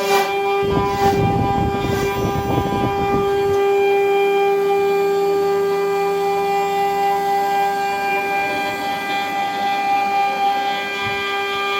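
CNC router spindle running with a steady high whine, carving wood, with a rougher noise under the whine for the first few seconds.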